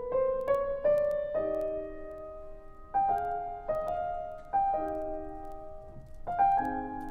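Piano music: a short rising run of single notes, then slow chords struck about every one and a half seconds.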